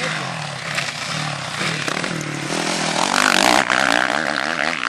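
Motocross bike engines revving up and down, the pitch rising and falling with the throttle. The sound is loudest about three seconds in, as if a bike passes close.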